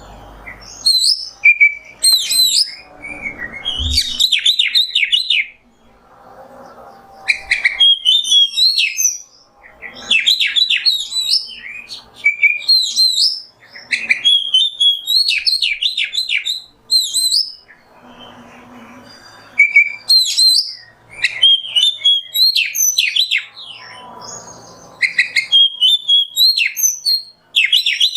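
Oriental magpie-robin (kacer) singing: loud phrases of quick whistled and chattering notes, each a second or two long, repeated after short pauses, with a few softer noisy stretches between phrases.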